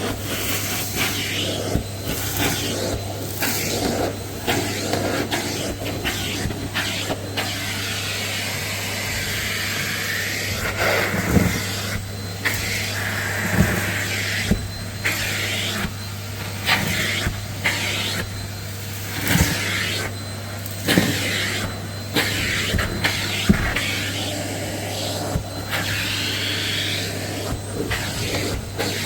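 Numatic Hetty cylinder vacuum cleaner running steadily, its suction noise swelling and dipping as the nozzle is worked over carpet. Sharp knocks and crackles of the tool and of picked-up grit are scattered through it.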